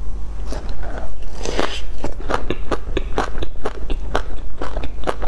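Close-miked biting into a pork floss and seaweed topped bun, then chewing it with a steady run of crisp crunches, about three a second.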